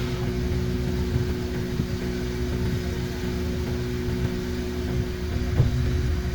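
Toyota Celica GT-S's 2ZZ-GE four-cylinder engine running steadily, with a single short knock about five and a half seconds in.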